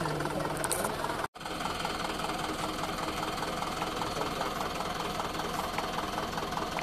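Truck's diesel engine running steadily with a fast, even clatter. The sound drops out for an instant a little over a second in.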